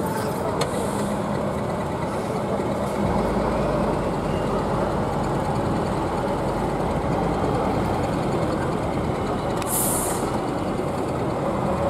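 Heavy truck engine running steadily, with a short hiss of compressed air near the end.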